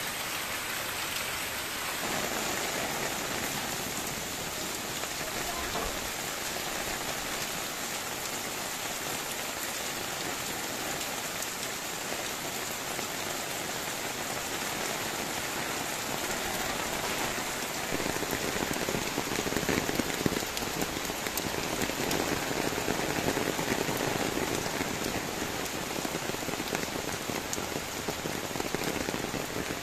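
Rain falling steadily, growing louder about two-thirds of the way through.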